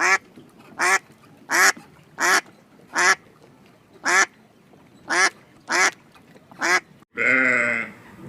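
A domestic duck quacking, nine separate short quacks about a second apart. About seven seconds in, the sound cuts abruptly to a goat's single long bleat.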